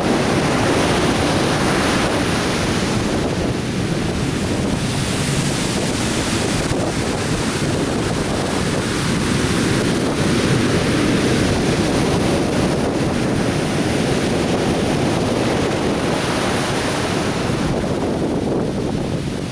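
Atlantic surf breaking and washing on a beach in a continuous rushing wash that swells and eases slowly, with wind buffeting the microphone.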